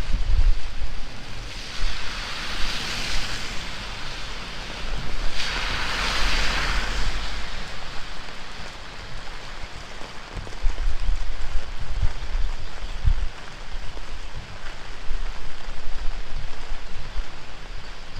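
Heavy rain falling with strong wind buffeting the microphone. The hiss of the rain swells louder twice in the first seven seconds.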